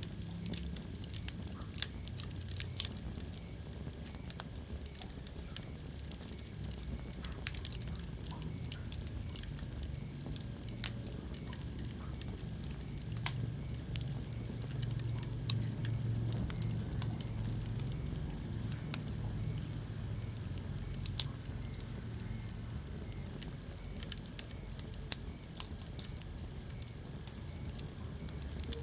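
Wood fire burning in a fireplace: a steady low rumble of flames with irregular crackles and a few sharper, louder pops scattered throughout.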